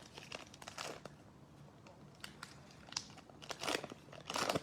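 Football trading cards and a foil pack wrapper being handled: scattered soft rustles, crinkles and card clicks, a little louder near the end.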